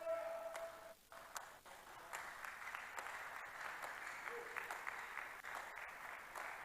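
Faint applause from a congregation, a steady clatter of clapping. It opens with a short, steady held tone lasting about a second.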